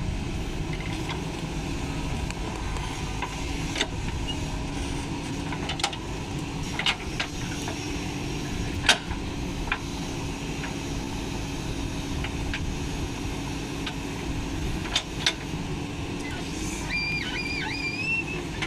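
JCB 3DX backhoe loader's diesel engine running steadily while it works, with scattered metallic clanks and knocks, the loudest about nine seconds in. A short wavering whistle sounds near the end.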